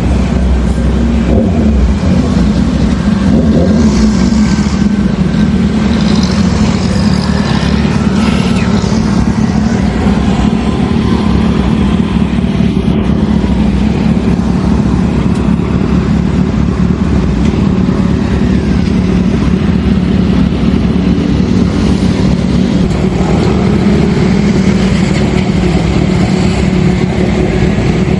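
Kawasaki Ninja ZX-10R's inline-four engine idling steadily, with no clear revs.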